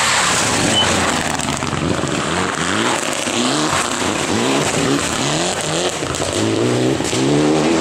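A historic rally car's engine revving hard on a stage, its pitch climbing and dropping several times as the driver works the throttle and gears.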